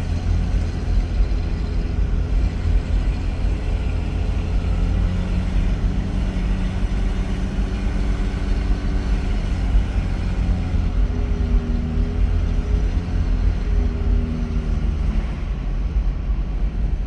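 1967 Ford Mustang's inline six-cylinder engine running while the car drives along, a steady deep rumble with road noise. The engine note rises and falls slightly as the speed changes.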